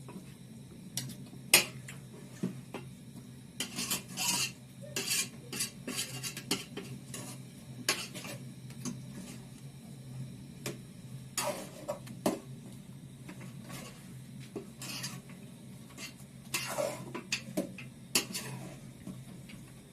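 A spoon stirring chicken pieces and onions in a cooking pot, with irregular clinks and scrapes against the pot, over a steady low hum.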